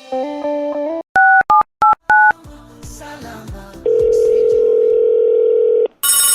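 Telephone sounds in a song's intro: a melody line ends about a second in, then four short keypad tones are dialled, followed after a short pause by a steady phone tone lasting about two seconds. A phone ring starts near the end.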